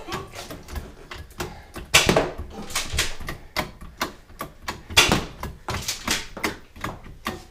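Irregular clicking and tapping, with two louder sharp knocks about two and five seconds in.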